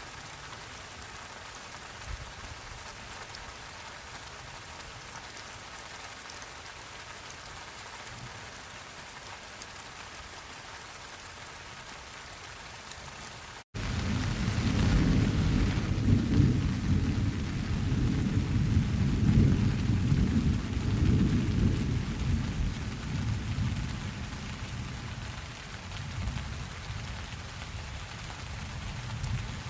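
Steady rain falling. About halfway through, right after a brief dropout, a long peal of thunder comes in loud and low and slowly fades over about ten seconds while the rain goes on.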